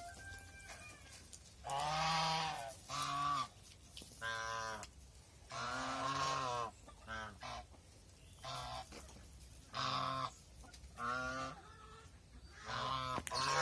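White geese honking again and again: about ten loud, pitched calls, some drawn out to about a second and others short, with brief gaps between them.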